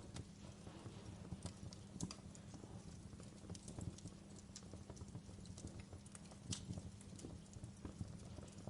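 Wood fire in a fireplace crackling, with irregular sharp pops, the strongest about two seconds in and again past six seconds, over a steady low hum.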